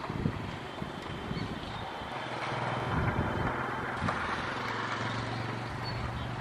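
Rail vehicles running at a station: a steady low mechanical hum with rumble, the hum settling in about two seconds in.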